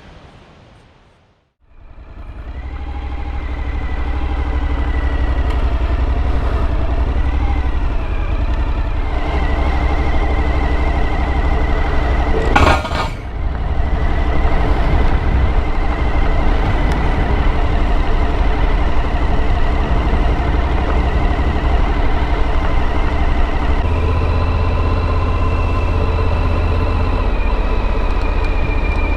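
Motorcycle engine running steadily with road and wind noise while riding, coming in about two seconds in, with a brief loud burst of noise about halfway through.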